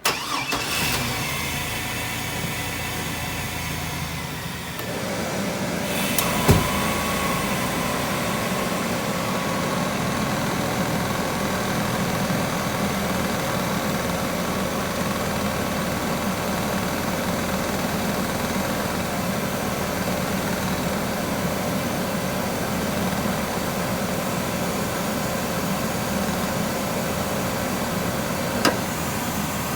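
1999 Chevrolet Astro's 4.3-litre V6 idling steadily with the air conditioning running, as it must for a refrigerant recharge. About five seconds in the sound steps up and a steady hum joins it. There is a sharp click about six and a half seconds in and another near the end.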